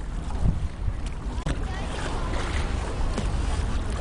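Outdoor riverside ambience: wind buffeting the microphone over a steady low rumble, with faint voices in the background.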